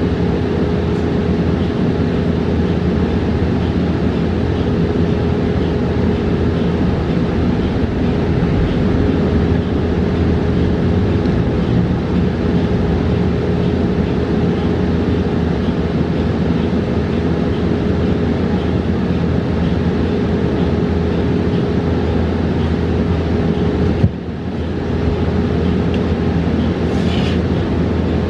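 Cabin noise inside a battery-electric New Flyer XE40 bus under way: steady road and tyre rumble with a constant hum. A sharp knock sounds about four seconds before the end, and a short higher-pitched squeak follows soon after.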